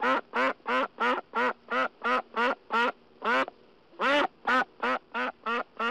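Mallard duck quacking in a steady run of short, loud quacks, about three a second, with a brief pause a little past halfway.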